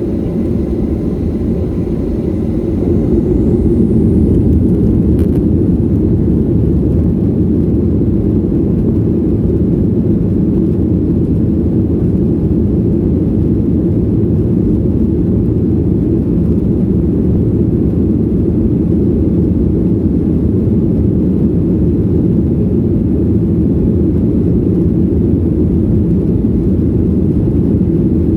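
Airliner engines heard from inside the cabin during takeoff: a loud, steady low rumble that swells over the first few seconds and then holds, with a faint high whine rising early on.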